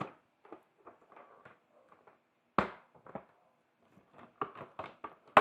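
Scattered plastic clicks and knocks as the Honda CBR1000RR-R's stock windshield is worked loose from its mounts, with a sharp knock about two and a half seconds in and a loud snap near the end as it pops free.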